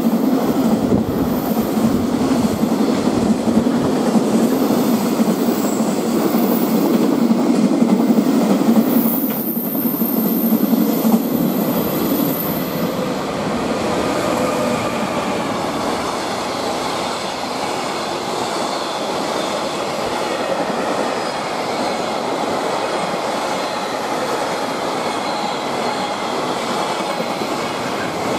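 Freight trains passing through at speed: a string of container wagons rumbling and clattering past with a thin high wheel whine. About halfway through, a second freight train runs through behind an electric locomotive, its wagons clattering by more evenly.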